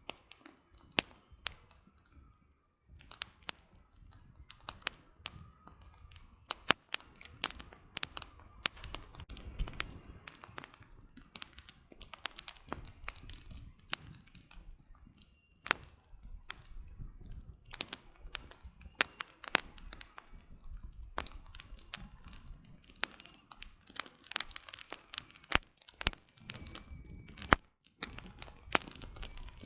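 Wood campfire crackling: a steady run of irregular sharp pops and snaps from burning firewood over a soft low rush. The pops come thicker in the second half.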